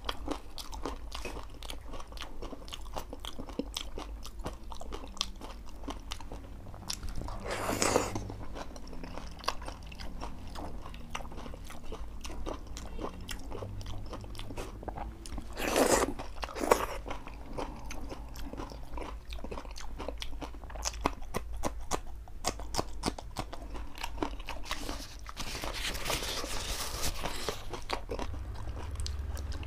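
Close-miked eating of dahi puri: crisp puri shells crunching and wet chewing and lip-smacking, with many small mouth clicks. Two louder, drawn-out mouth sounds come about a quarter and halfway through, and a breathy blow follows near the end.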